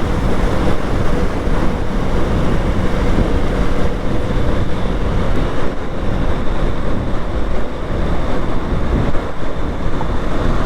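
Motorcycle riding at speed: steady wind rush on the microphone over the engine's hum and road noise.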